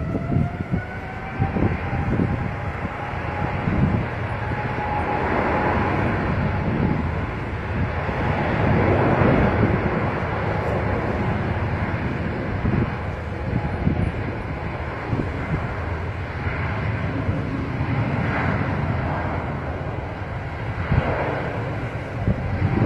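Jet airliner engines: a whine that rises in pitch near the start, then a steady, loud rushing noise of the aircraft as it passes.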